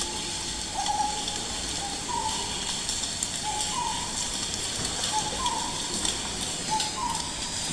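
A bird calling over and over: pairs of short clear notes, the second higher than the first, about every second and a half, over a steady hiss.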